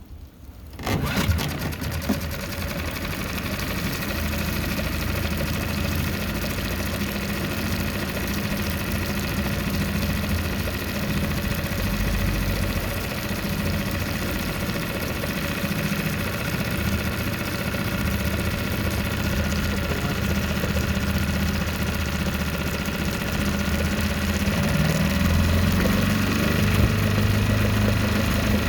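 Restored Honda WE-18 outboard motor starting about a second in, then running steadily at idle, a little louder near the end.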